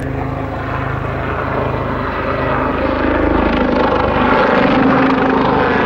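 Westland Lynx helicopter flying a display, its rotor and turbine engines a steady drone that grows gradually louder.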